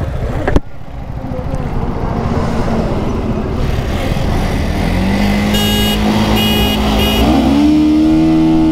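KTM Duke 250 motorcycle engine at the start line over a low rumble of wind and engine, with a sharp knock about half a second in; from about five seconds its note holds steady, then climbs in pitch as the bike launches and accelerates from a standstill. Three short high beeps sound shortly before the launch.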